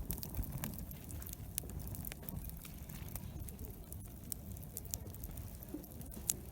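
Wood campfire crackling, with frequent small sharp pops at irregular intervals over a low background rumble.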